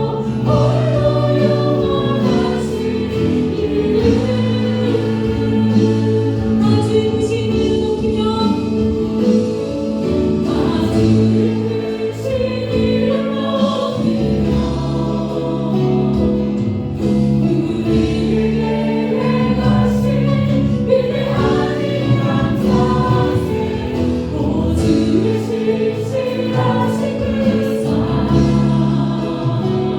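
Group singing of a Christian worship song, many voices together as a choir, with steady instrumental accompaniment.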